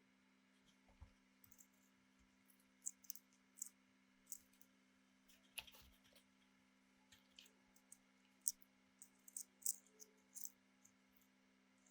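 Faint, irregular small clicks and ticks, more frequent in the second half, over a low steady hum.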